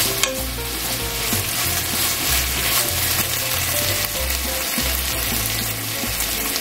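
Green pepper pieces sizzling steadily in sesame oil and sauce in a frying pan. At first they are tossed with chopsticks, with a sharp tap against the pan about a quarter second in.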